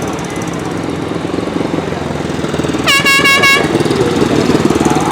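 Speedway motorcycles' single-cylinder engines running with a pulsing note. About three seconds in, an air horn sounds a quick series of about four short blasts.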